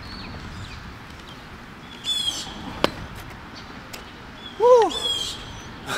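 Birds calling against a steady outdoor background: short high chirps about two and five seconds in, and a louder, lower call that rises and falls in pitch just before five seconds. A single sharp click comes near three seconds.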